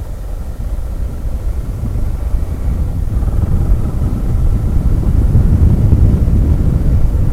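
Motorcycle riding downhill: engine and wind-on-microphone rumble, growing louder about three seconds in.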